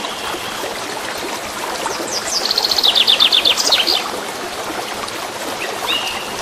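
Wild birds singing over the steady rush of a stream. A fast run of about eight falling notes comes around two to four seconds in, with a couple of short chirps near the end.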